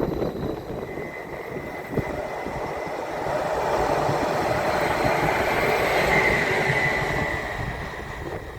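DB Regio red passenger train running on the rails, its noise growing louder through the middle and fading near the end, with a steady high whine over it.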